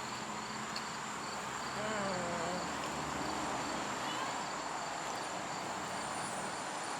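Insects trilling steadily in outdoor ambience: a constant high-pitched buzz with a faint pulsing trill beneath it. A faint distant voice is heard about two seconds in.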